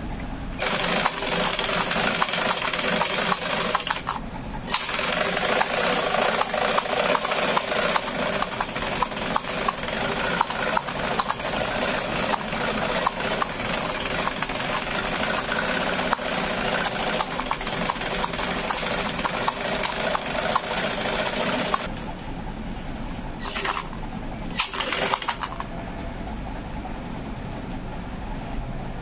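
Rapid, irregular clicking and tapping over a steady mechanical hum, thinning out and getting quieter for the last several seconds.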